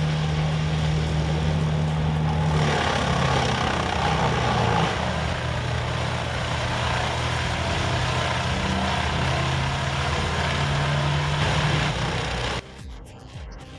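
Heavy machine engine running steadily. From about three seconds in a loud, harsh grinding noise is added on top, and the sound drops off suddenly near the end.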